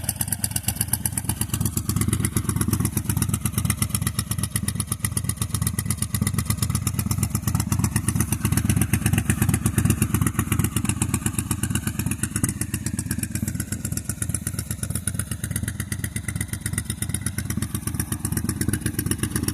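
1998 Honda VT1100 C3's V-twin engine running steadily through its debaffled stock exhaust: a fast, even string of low, loud exhaust pulses.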